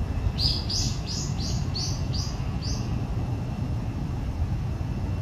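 A bird calling a quick run of about seven short, high, evenly spaced notes, about three a second, that stops just under three seconds in. A steady low rumble lies under it.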